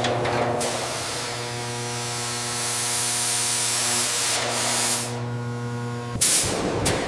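A steady spray hissing over the even hum of a running motor, as during spray-cleaning work on a car. About six seconds in the hum and hiss cut off, followed by a couple of sharp knocks.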